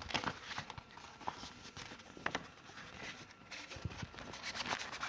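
Handling noises of an item being taken out of its packaging: irregular clicks, taps and rustles, with a sharper knock about two and a quarter seconds in.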